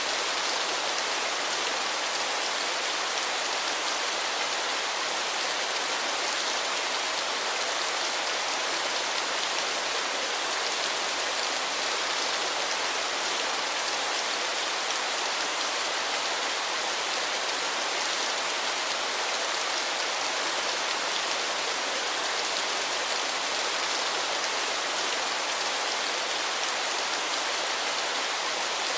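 Waterfall: the steady rush of falling water, an even hiss heavy in the upper range that does not change.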